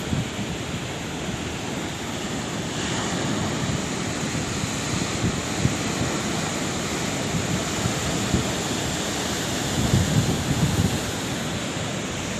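Sea waves on a shore: a steady rush of surf that swells louder about ten seconds in, with wind rumbling on the microphone.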